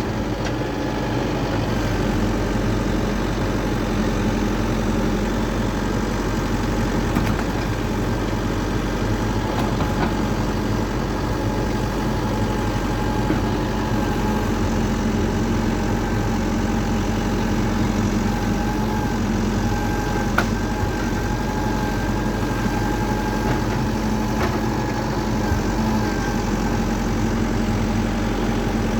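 An engine idling steadily, with a few short knocks over it.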